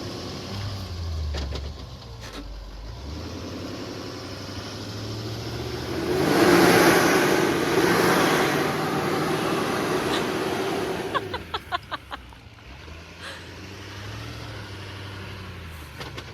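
Heavy-duty GMC Sierra 2500 AT4X pickup's engine running and revving off road on soft, muddy ground. A loud rushing surge builds about six seconds in and lasts some five seconds. A quick run of sharp clicks follows, then the engine settles lower.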